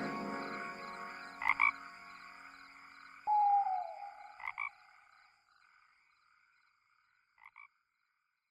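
A frog croaking in short double calls about every three seconds, with one louder, longer call falling in pitch about three seconds in. The last note of a song fades out at the start.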